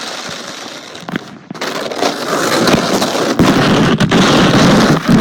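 A sled sliding over icy, crusted snow, making a continuous crackling scrape that grows louder about two seconds in.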